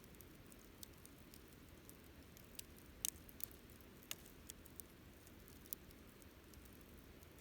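Wood campfire crackling: scattered, irregular sharp pops and snaps, the loudest about three seconds in, over a faint low steady rumble of the burning fire.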